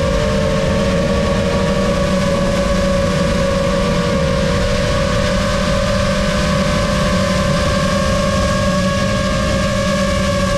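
Lumenier QAV-S 5-inch FPV quadcopter's motors whining steadily in flight: several close pitches that drift slightly apart and together as the motor speeds change.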